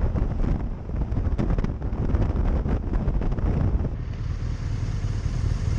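Wind buffeting the microphone of a motorcycle at motorway speed, a gusty rush over a steady low rumble of engine and road noise.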